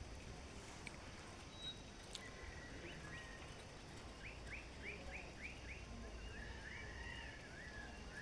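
Faint bird calls: a run of about six quick sweeping notes, then a wavering, warbled phrase near the end.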